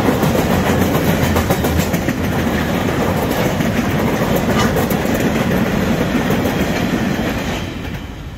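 Steel freight train's flat wagons rolling past with a steady rumble and clickety-clack of wheels over the rail joints. The sound fades near the end as the last wagon clears.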